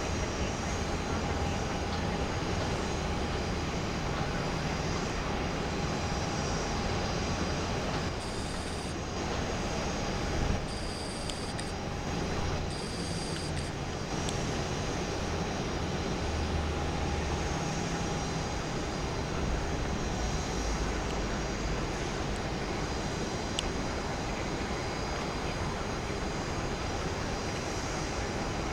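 GE90 turbofan engines of a Boeing 777-200ER running steadily: a low rumble under a constant high whine.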